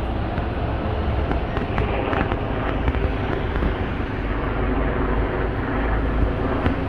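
Steady low rumble of vehicle engine noise, with a few faint ticks.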